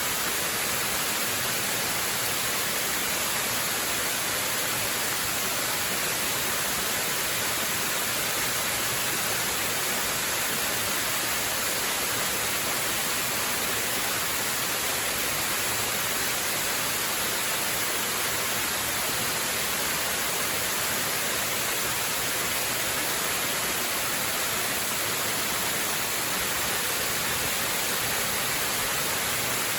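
Waterfall rushing steadily, an even, unbroken hiss of falling water, bright with little low rumble.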